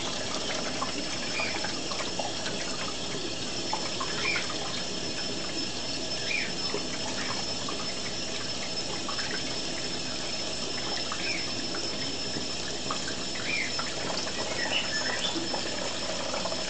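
Tap water running steadily over cupped hands where a green-cheeked conure is bathing, with a few faint, brief sounds scattered over the flow.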